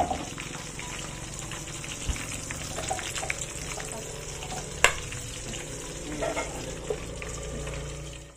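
Sambal ingredients (shallots, garlic, shrimp paste, palm sugar, tomato and red chilies) sizzling steadily as they fry in hot oil, with scattered small clicks and one sharp knock about five seconds in.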